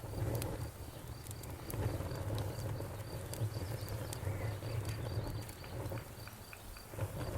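Wood bonfire crackling, with scattered sharp pops over a low rumble of burning, while crickets chirp in a steady pulsing train.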